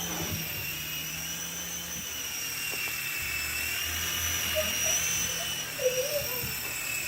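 Sky Rover Vigilante toy RC helicopter flying: a steady high electric-motor whine from its small rotors, the pitch drifting slightly up and down as the throttle changes.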